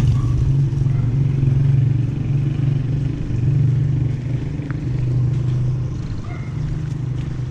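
A motor vehicle's engine running steadily nearby, a continuous low hum that swells and eases slightly.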